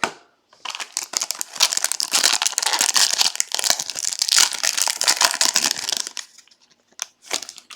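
Plastic trading-card pack wrapper being torn open and crinkled by hand, a dense crackling that stops about six seconds in, followed by a couple of light clicks.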